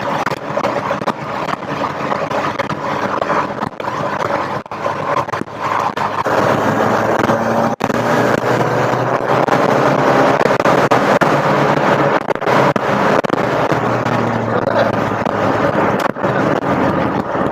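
Rover Metro's 1.8 VVC K-series engine running under load on the road, with tyre and wind noise and crackling on the microphone; the engine note gets louder about six seconds in.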